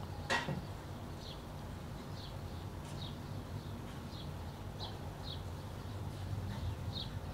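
A small bird chirping repeatedly in short, high, falling chirps, roughly one a second at irregular spacing, over a low steady hum. A single sharp click sounds about a third of a second in.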